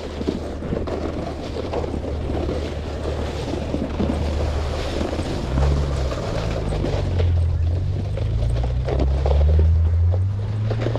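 A snowboard sliding and scraping over snow as huskies tow it, with wind buffeting the microphone. Under it runs a low hum that rises in pitch in the second half.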